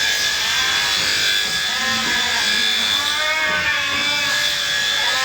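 Electric sheep-shearing handpiece running with a steady high whine, with several short rising-and-falling bleats from sheep over it.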